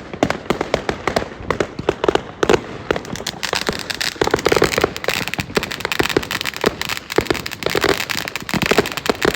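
Fireworks going off in a dense barrage: a continuous stream of sharp bangs and crackling pops, several a second.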